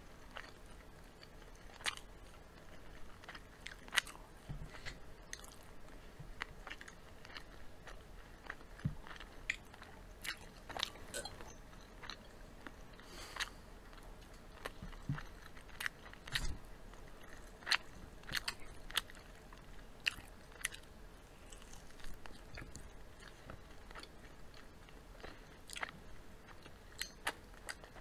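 Two people chewing fried chicken and fries, with many short, irregular crunchy clicks.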